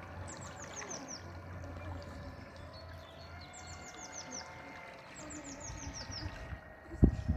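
A songbird singing a short phrase of quick falling notes, repeated three times, over a faint low hum. A sharp thump near the end.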